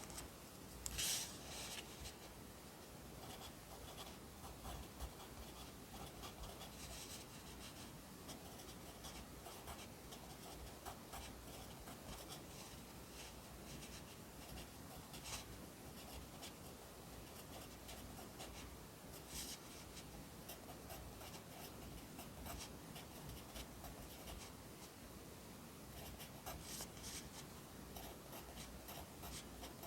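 Pencil writing by hand on paper: a steady run of short, faint scratching strokes, with a few louder scrapes now and then.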